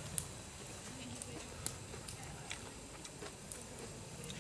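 Wood campfire crackling: a handful of faint, sharp pops at irregular intervals.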